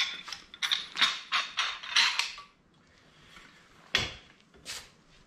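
Small metal parts being handled, clinking and rattling in quick bursts for a couple of seconds, then one sharp knock about four seconds in.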